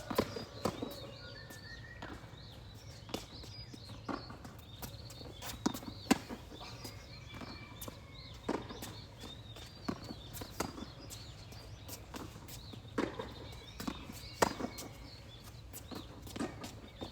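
Tennis rally: rackets striking the ball and the ball bouncing on the court, a sharp pock about every second or so at uneven spacing, with players' footsteps moving between shots.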